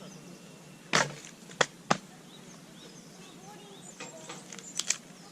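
Firewood being split: a heavy knock about a second in, two sharper knocks soon after, and a quick double knock near the end.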